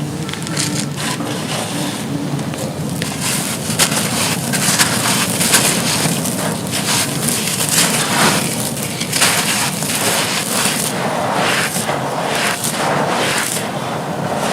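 Dry, crumbly blocks being crushed and crumbled, a continuous gritty crackling made of many small snaps and crunches.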